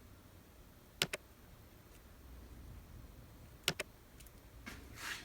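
Keys on a MacBook Air keyboard clicking in two quick pairs, as if pressed and released, then a soft rustle of handling near the end. The laptop makes no other sound, as it does not power on.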